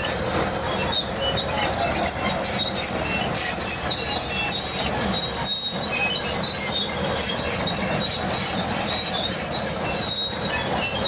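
Crawler bulldozer working, its steel tracks squealing and creaking in many short high squeaks over the continuous noise of the running machine.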